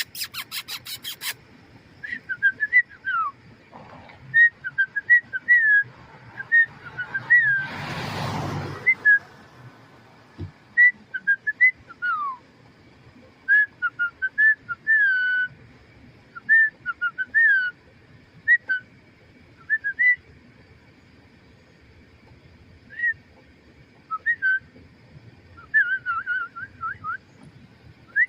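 Short, high whistled chirps in irregular runs, most of them quick falling notes, with a brief rush of noise about eight seconds in.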